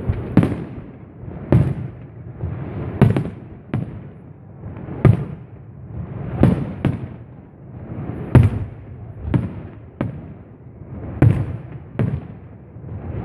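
Aerial fireworks shells bursting one after another, about a dozen sharp bangs at irregular intervals of a second or two, each trailing off into a rumble, over a continuous low rumbling and crackling.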